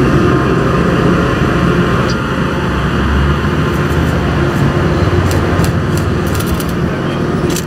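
Circus train's passenger cars rolling past, steel wheels running on the rails with a loud, steady rolling noise. From about five seconds in, a run of short sharp ticks rides over it.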